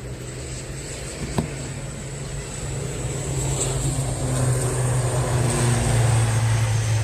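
Engine noise swelling steadily: a low hum with a hiss above it, growing louder and loudest near the end. A single sharp click about a second and a half in.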